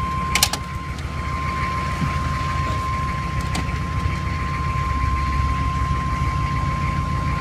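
GM 6.5-litre V8 diesel idling steadily with a low clattering rumble, shortly after a cold start in the snow. A steady high whine runs over it, and there is a sharp click about half a second in.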